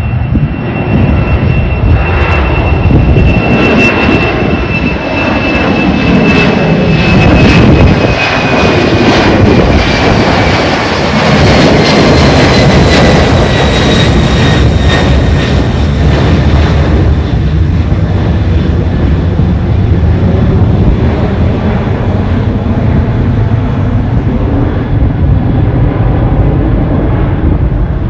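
Jet airliner taking off, its engines at takeoff thrust: a loud, steady rumble with a high engine whine that slides slowly down in pitch as the aircraft passes, and a second, higher whine falling in the same way about halfway through.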